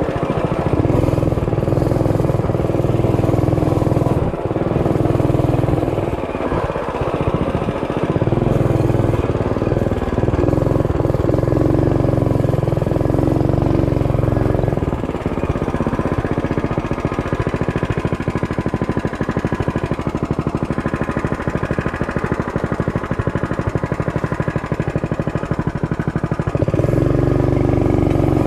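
Mini bike's small engine running while it is ridden, its note shifting several times as the throttle changes.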